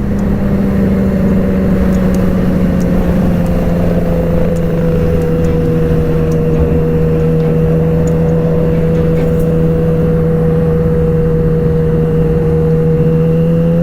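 Motorcycle engine running at steady revs under way, its pitch easing down slightly over the first few seconds and then holding level.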